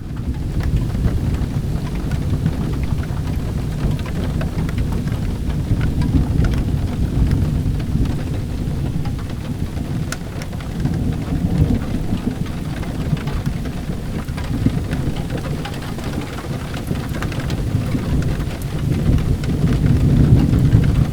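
Steady rain falling, with a low rolling rumble of thunder that swells and fades several times and is loudest near the end.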